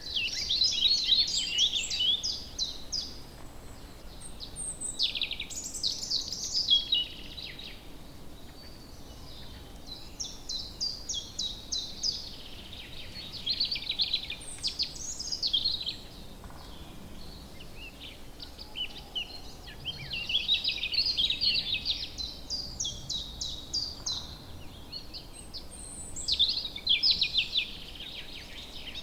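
Songbirds singing: phrases of rapid trilled notes and quick falling whistles come in bursts every few seconds over a faint steady hiss.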